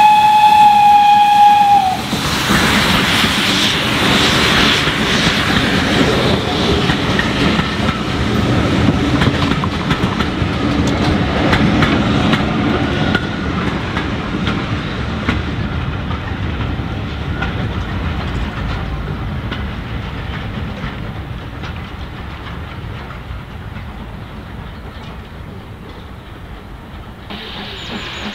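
Steam locomotive whistle, a steady tone that ends with a slight drop in pitch about two seconds in. The locomotive and its train then pass with a rumble and the clickety-clack of wheels over rail joints, slowly fading away. A hiss starts near the end.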